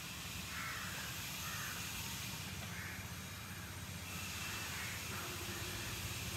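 Birds calling, three or four short harsh calls, over a steady high hiss of outdoor background noise.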